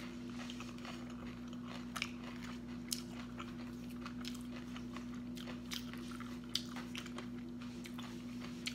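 Someone chewing crispy panko-crumbed deep-fried tofu, with scattered sharp crunches, over a steady low hum.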